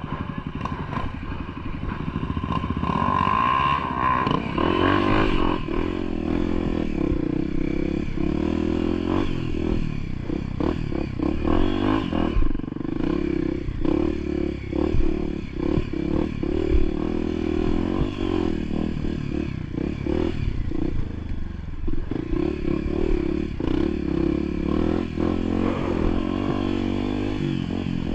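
Off-road motorcycle engine running under load, its note rising and falling with the throttle, with frequent clattering knocks over rough ground.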